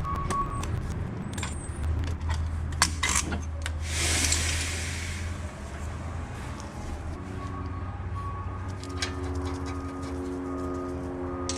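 Metal tools clinking and knocking on a car's rear brake assembly, with a short hiss about four seconds in, then a steady hum from about seven seconds on.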